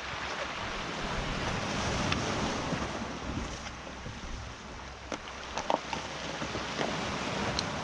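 Sea waves washing and wind blowing on the microphone, with a few short knocks about five to six seconds in.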